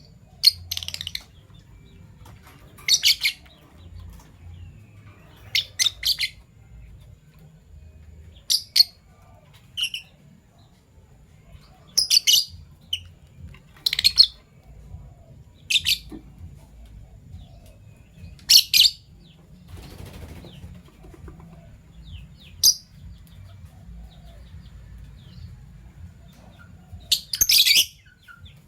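Fischer's lovebirds giving short, shrill chirps: about a dozen sharp calls scattered a second or two apart, the loudest near the end, over a faint low background rumble.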